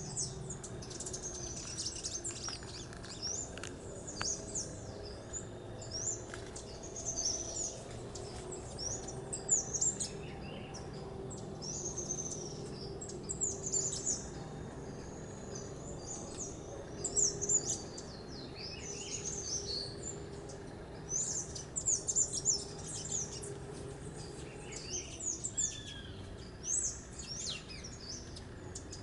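Several small birds chirping and calling in the tree crown: short, quick, high chirps come one after another throughout, with a few lower down-slurred notes near the end.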